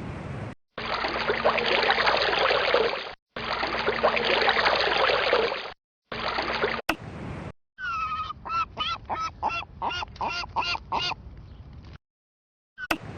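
A series of hard-cut animal-sound clips. First a loud, harsh rushing noise comes in three pieces with short silent gaps between them. Then a run of about a dozen short, evenly spaced calls follows, roughly three or four a second, each rising and falling in pitch.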